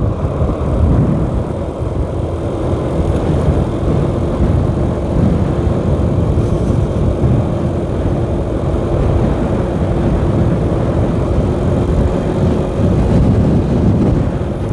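Wind rush and engine noise from a 125cc motorcycle ridden at a steady speed, with a steady engine hum through the middle.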